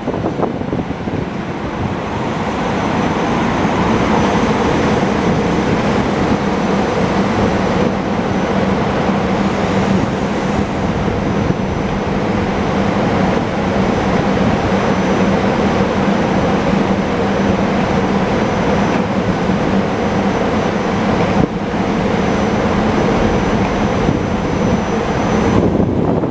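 SEPTA GE Silverliner IV electric multiple-unit train rolling past close by: steel wheels on the rails with a steady hum from the traction equipment and a faint high whine over it.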